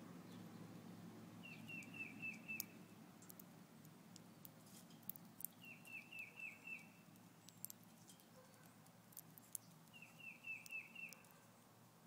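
A songbird repeats a quick run of about five short, falling whistled notes three times, about four seconds apart, over faint scattered clicks.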